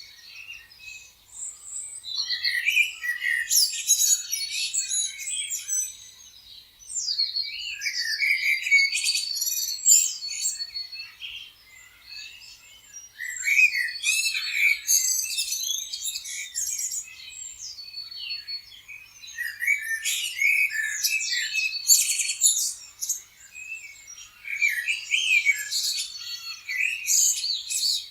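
Several birds chirping and singing together, with quick overlapping high chirps and trills that come in bursts every few seconds with short lulls between them.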